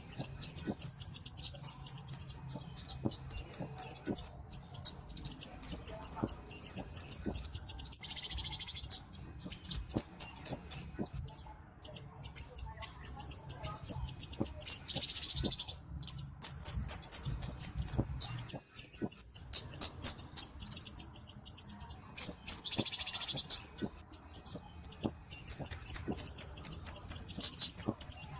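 Flowerpecker (burung cabe) calling: rapid, high-pitched trills of sharp notes in bursts of a second or two, with short gaps, repeated over and over.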